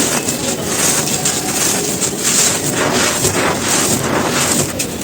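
Dry, gritty cones being crushed and crumbled, a steady dense crunching with fine crackles.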